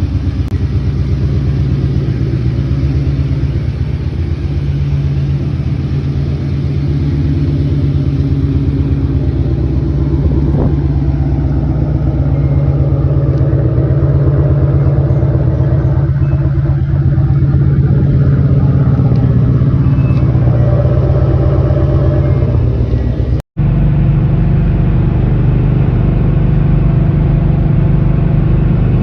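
Turbocharged Ford Mustang engine on an On3 turbo kit idling with a steady, even rumble. The sound drops out for an instant about three-quarters of the way through, then carries on unchanged.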